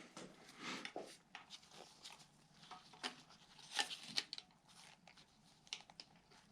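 Faint scrapes and small metallic clicks of pliers gripping and working at a stuck valve lifter in a 1950 Cadillac 331 engine block, with a sharper click about three seconds in and a quick cluster of clicks around four seconds in.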